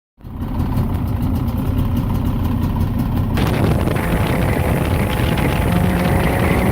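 Jet boat engine running with a low rumble. About three seconds in, a loud hiss of wind or water suddenly joins it, and the engine pitch edges up near the end.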